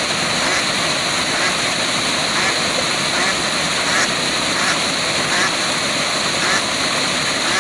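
Waterfall, water rushing and splashing steadily, with faint short sounds repeating over it.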